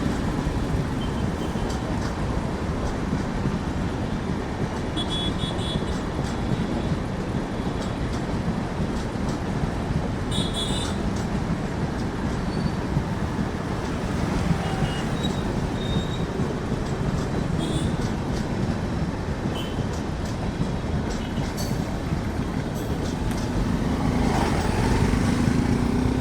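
Express passenger train running past on the track: a steady rumble of wheels on rail with light clicks and a few brief high squeals, getting louder near the end.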